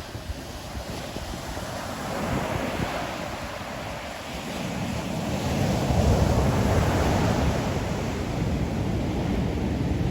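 Ocean waves breaking on the shore, a small surge early on and a bigger one building about four seconds in, peaking and slowly washing back. A low rumble of wind on the microphone runs underneath.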